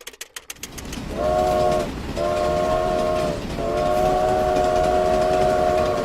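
Multi-note train horn sounding three blasts, the last one long, over the low rumble of a passing train.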